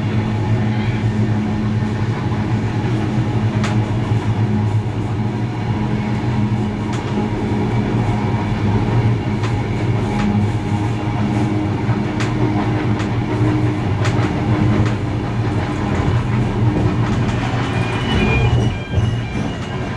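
Steam-hauled heritage train running along the line, a steady rolling rail-and-wheel noise with scattered sharp clicks of wheels over rail joints. A few short high-pitched tones come in near the end.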